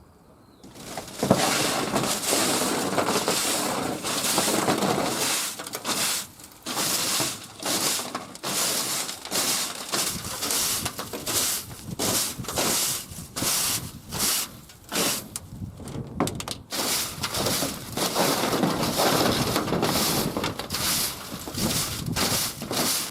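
Repeated rough scraping or rasping strokes, a little over one a second, starting about a second in after a near-quiet start, with a more continuous stretch early on.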